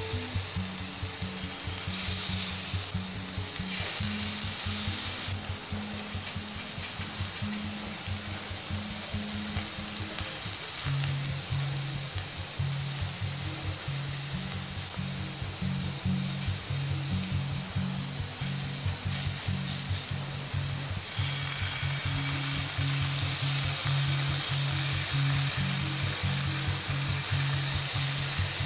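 Skewered tempe gembus sizzling in oil on a hot grill pan, a steady hiss that grows louder a little before the end, over background music.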